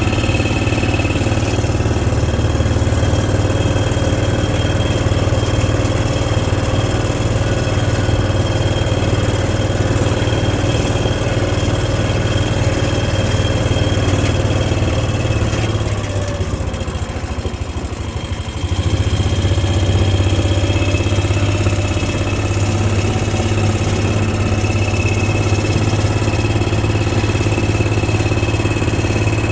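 Engine of a slow-moving vehicle running steadily, with a faint steady whine over it. Just past the middle it eases off for a couple of seconds, then picks up again.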